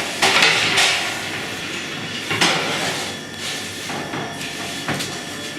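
A baker's peel scraping and knocking on the stone floor of a wood-fired bread oven as loaves are loaded: several short hissing scrapes, the loudest near the start and about two and a half seconds in, with a few sharp knocks.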